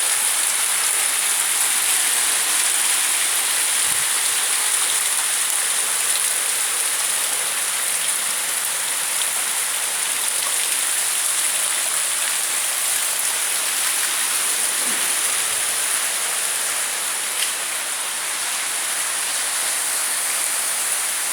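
Heavy rain pouring down in a tropical downpour, a dense, steady hiss of rain that holds without let-up.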